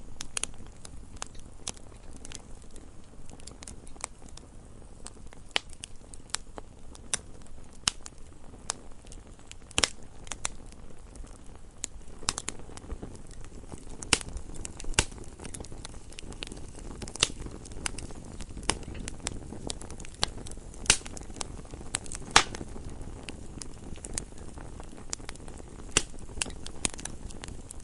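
Campfire crackling: irregular sharp pops and snaps, several a second at times, over a steady low rush of the burning fire.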